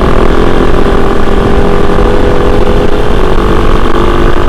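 Kove 450 Rally's single-cylinder engine running at a steady speed while riding, with a low rumble underneath.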